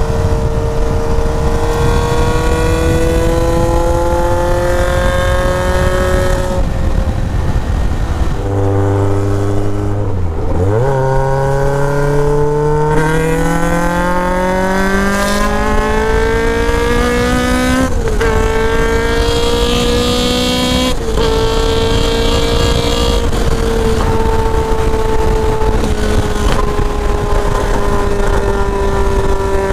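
Caterham R500 Superlight's 1.8-litre Rover K-series four-cylinder engine under way, heard from the open cockpit over a steady rush of wind noise. Its note holds steady, drops low about nine seconds in, then climbs steadily through the revs with two quick gearchanges near the middle, before settling back to a steady cruise.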